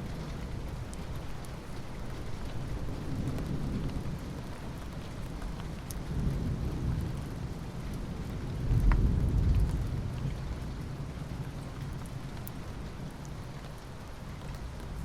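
Steady rain falling, with low thunder rumbling through it in slow swells, the loudest about nine seconds in.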